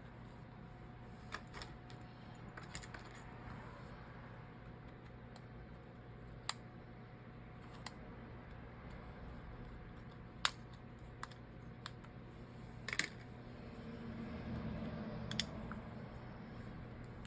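Small hand tools and phone parts clicking and tapping during a phone teardown: scattered sharp clicks at irregular intervals, the loudest about ten seconds in.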